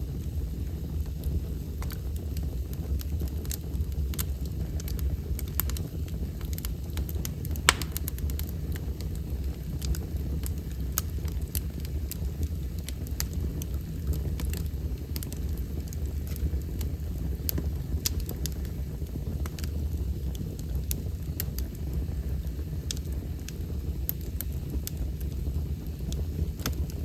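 Wood fire burning in a fireplace: a steady low rumble with scattered sharp crackles and pops, one louder pop about eight seconds in.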